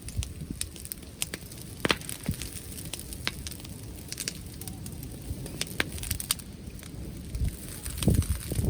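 Wood fire crackling, with irregular sharp pops and snaps over a low rumble. A louder low rustling comes in near the end.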